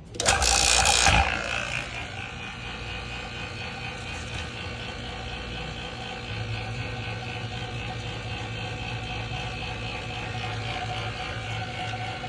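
Vacuum pump starting with a short loud rush of air about a second long, then running steadily as it evacuates the refrigerator's sealed refrigerant system.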